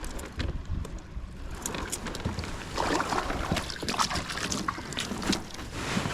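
Wind buffeting the microphone over water lapping against a kayak, with scattered small clicks and knocks.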